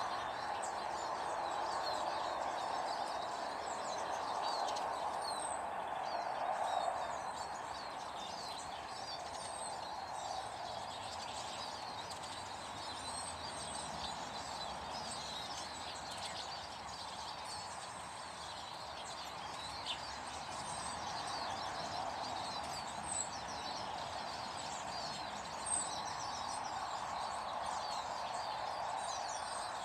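Many small garden birds chirping and twittering, short high calls overlapping throughout, over a steady rushing background noise. A few brief knocks stand out near the end.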